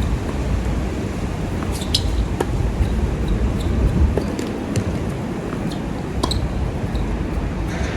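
Strong wind buffeting the microphone, with a few sharp knocks of tennis balls being struck and bouncing on the hard court.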